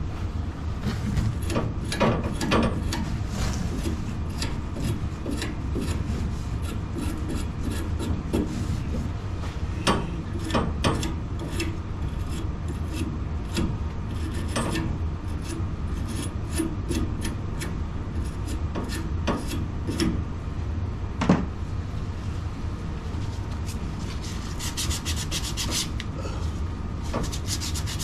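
Hand work on the water heater's pipe fittings while a valve is fitted: irregular scraping and rubbing strokes with scattered clicks and knocks, and a short bout of fast, high rasping near the end.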